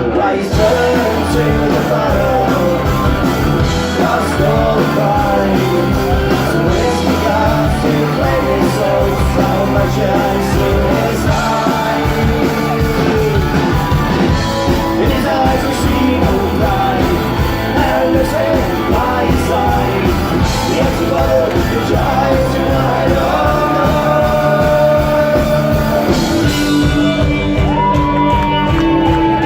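Loud, continuous rock band music, with a lead melody line bending in pitch over a steady beat.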